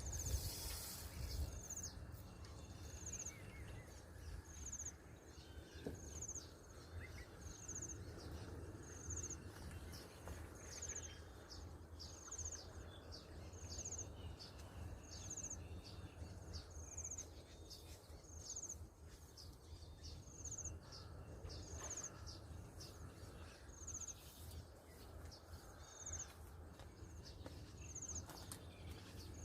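A bird giving a short, high chirp about once a second, over a faint steady low rumble.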